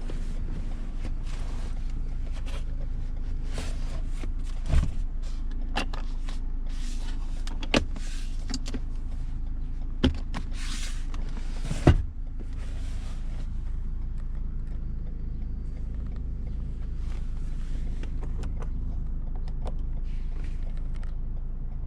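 2017 Lexus RX 200t with its 2.0-litre turbocharged four (8AR-FTS) driving on city streets: a steady low engine and road drone, broken by four sharp knocks, the loudest about twelve seconds in.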